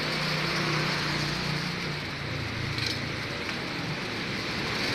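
A motor vehicle engine running steadily over a haze of traffic noise; its hum fades about two seconds in.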